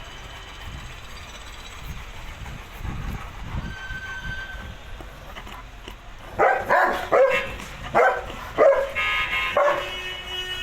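Caucasian Shepherd dogs barking: a quick run of about six loud barks starting some six seconds in, after a stretch of low background noise.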